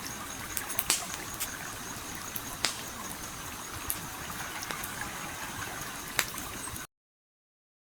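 Campfire crackling, with a handful of sharp pops, over the steady rush of a flowing stream. All sound cuts off abruptly into dead silence about seven seconds in.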